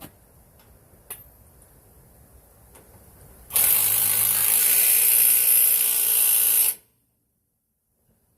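Cordless impact wrench running in one loud burst of about three seconds, starting a few seconds in and stopping abruptly, with a few faint clicks before it.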